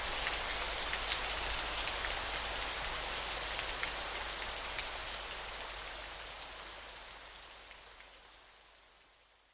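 River water flowing in a steady rushing hiss, with a high insect trill that comes in repeated runs about a second or more long. The whole sound fades out over the last few seconds.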